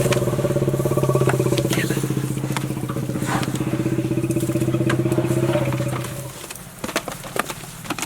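Safari jeep engine running steadily under throttle with an even hum, easing off about six seconds in. Scattered sharp clicks and snaps follow.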